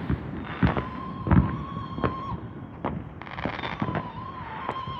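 Ground firework giving off a steady, squeaky whistle in two long stretches, with several sharp bangs in between.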